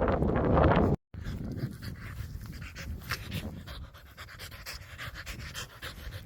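Dog panting hard in quick, repeated breaths close to the microphone. A burst of wind noise on the microphone cuts off about a second in.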